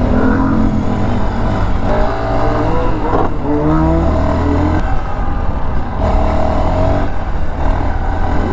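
Vehicle engines revving hard, the pitch climbing and dropping again several times.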